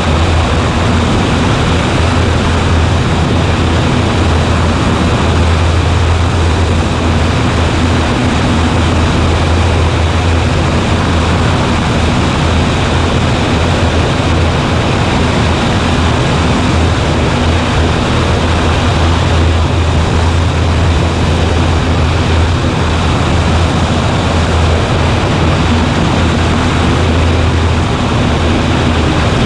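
Cessna 140A's light-aircraft engine and propeller droning steadily, with a strong low hum and a rushing noise over it.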